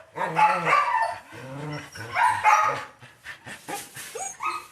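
A dog vocalizing in a string of short barks and whining yips whose pitch bends up and down, several in a row with short gaps between.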